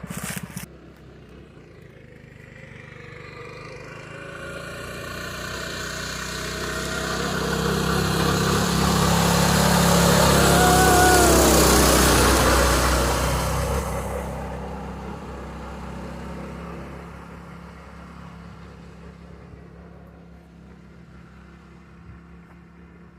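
Mazda B2200 pickup powered by a Predator 212 single-cylinder engine driving past: the engine grows steadily louder as it approaches, is loudest about halfway through, then fades as it moves away.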